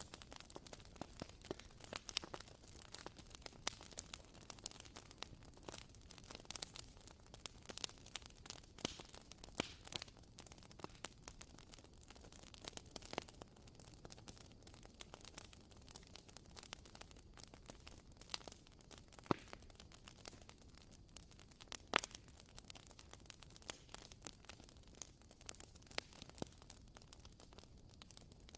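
Wooden candle wick crackling: irregular soft pops and clicks, several a second, over a faint steady hiss.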